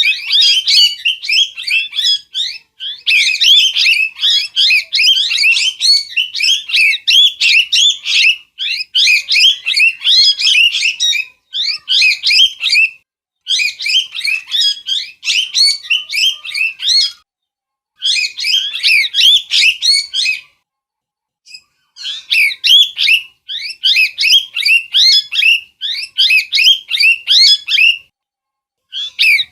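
A parrot calling in fast runs of short, high chirps and squawks, several notes a second, broken by brief pauses every few seconds.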